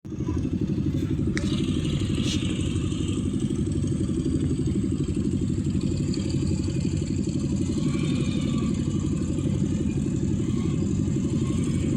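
Diesel engine of a heavy vehicle running steadily with a fast, even rumbling beat.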